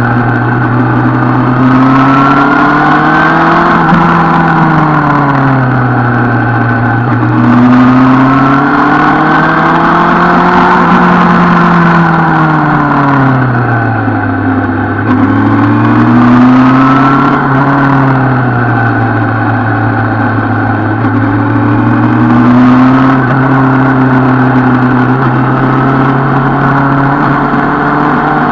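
Suzuki Bandit 650 N's inline-four engine running on the road, revs rising and falling several times as the rider accelerates and eases off, with wind rushing over the microphone.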